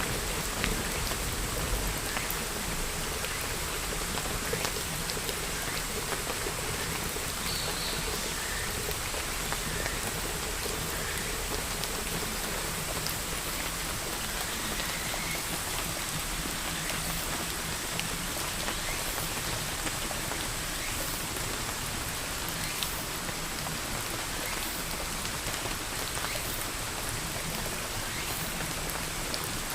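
Steady rain falling and pattering on surfaces, with the low rumble of thunder dying away in the first two seconds.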